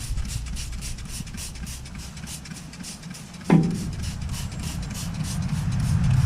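Hand trigger sprayer of degreaser being pumped rapidly, a quick run of short hissing squirts, about five or six a second. A single sharp knock, the loudest sound, comes about three and a half seconds in.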